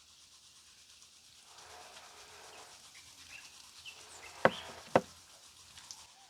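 Two sharp knocks about half a second apart, the loudest sounds here, over a faint outdoor background with a few short chirps.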